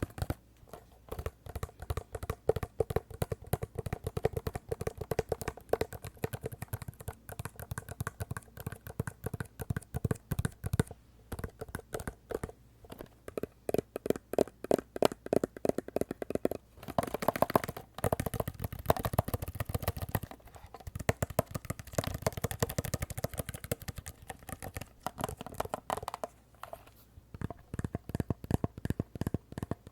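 Rapid tapping on a glasses case, many quick taps a second in runs broken by short pauses.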